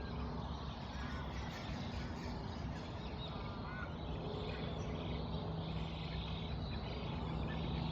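Birds chirping and calling over a steady low hum and a constant wash of background noise.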